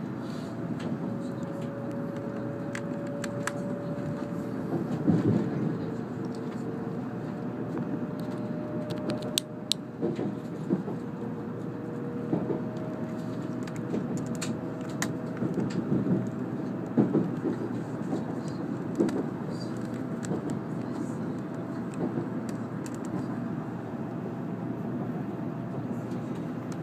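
Interior running noise of an N700-series Shinkansen train gathering speed: a steady rumble with faint motor whine tones slowly rising in pitch. Scattered knocks come from the wheels on the track, the loudest about five seconds in and between ten and seventeen seconds.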